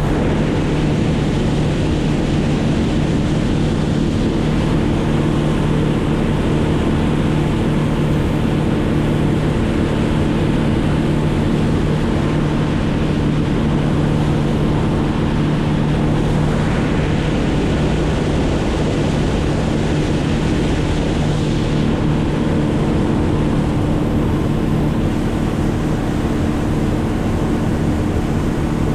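Engine running steadily at a constant speed, its drone mixed with a continuous rush of wind or water noise.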